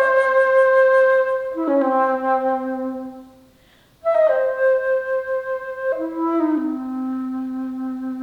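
Alto flute playing solo: two phrases, each a long high note that drops to a lower held note, with a short pause between them.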